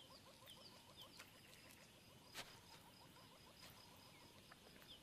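Faint natural bush ambience: small creatures chirping rapidly, about five chirps a second, with a few higher chirps over a faint steady high whine, and one sharp click about two and a half seconds in.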